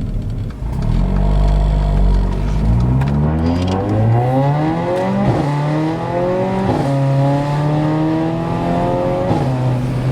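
Straight-piped Mercedes CLA45 AMG's turbocharged four-cylinder engine accelerating hard. The engine's pitch climbs, drops back at each upshift about five, seven and nine and a half seconds in, and then holds steady.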